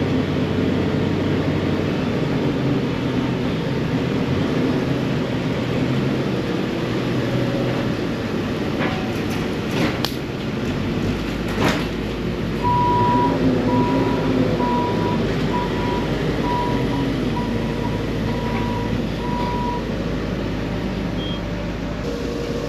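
Engine running steadily, with a few sharp knocks near the middle and a deeper hum setting in about halfway. A short beep repeats about once a second for several seconds in the second half.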